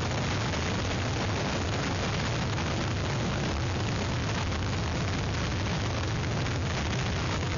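Hurricane wind buffeting an outdoor webcam microphone, with storm rain mixed in: a steady rush of noise with a strong low rumble.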